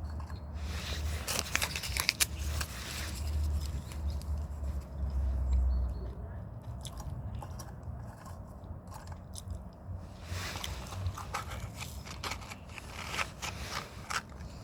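Dry wood crackling and snapping in two bursts of sharp clicks, about a second in and again near the end, over a low rumble in the first half.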